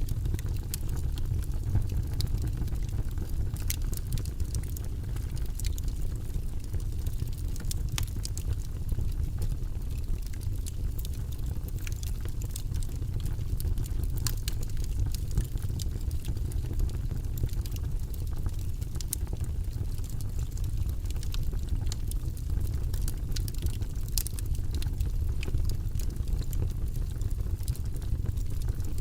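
Wood logs burning in a fireplace, crackling and popping in many small irregular snaps over a steady low rumble of the fire.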